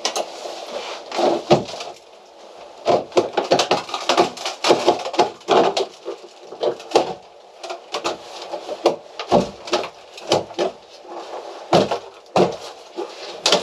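Rotten wooden boat interior panelling being pried and broken out by hand: irregular cracking, splintering and knocking, in clusters of several sharp strokes with short pauses between.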